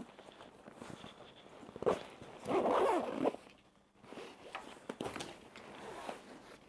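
Backpack zipper being pulled along a compartment, with the fabric handled and rustling; the loudest zip strokes come about two to three seconds in.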